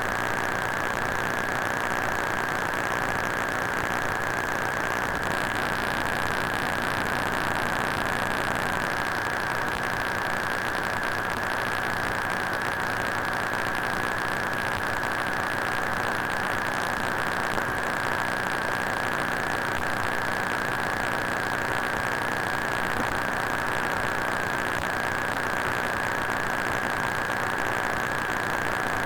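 Broken-electronics sound effect: steady electrical static and hiss with a constant high-pitched whine, unchanging throughout.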